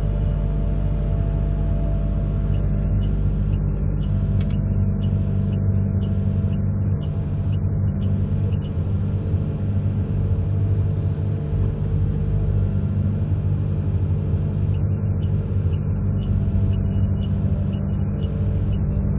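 Amphibious excavator's diesel engine running steadily, a continuous low drone.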